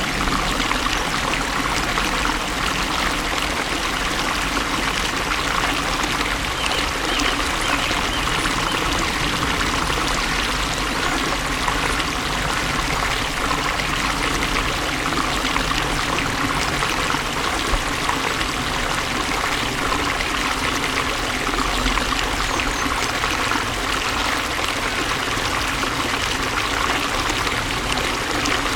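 Water flowing steadily, a stream splashing and trickling with an even rushing sound.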